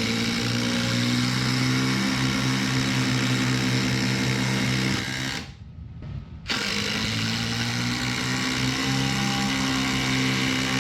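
Cordless impact drivers running under load with a steady whine. The sound breaks off for about a second midway, then starts again.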